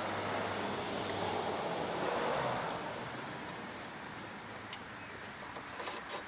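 Steady high-pitched pulsing trill of a cricket, with a few faint clicks.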